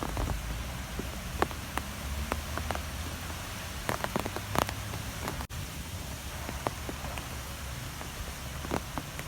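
Strong wind blowing, a low rumbling buffet under a steady rush, with scattered sharp ticks throughout. The sound cuts out for an instant about five and a half seconds in.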